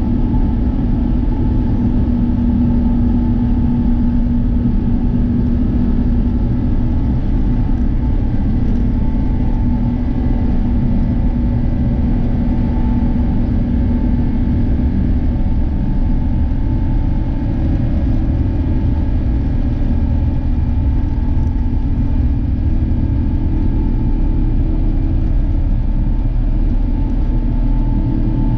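Steady deep rumble of an Airbus A350-900, its Rolls-Royce Trent XWB engines and airflow, with a faint steady hum on top and no change in level.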